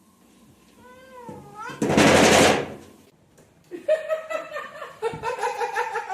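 A cat meowing: a short meow that bends up and down about a second in, a loud harsh noise around two seconds, then a run of quick, stuttering calls near the end.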